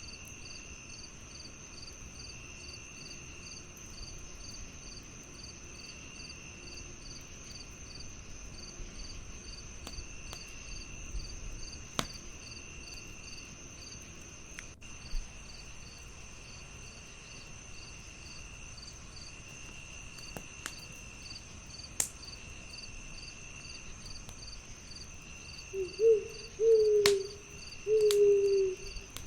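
Crickets chirping steadily, with one lower trill repeating about every two seconds, and a few sharp crackling pops from a wood fire. Near the end an owl hoots three times, the loudest sound.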